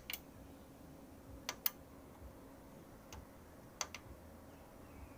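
A few sharp, separate clicks, a pair of them close together about a second and a half in, over a faint steady hum.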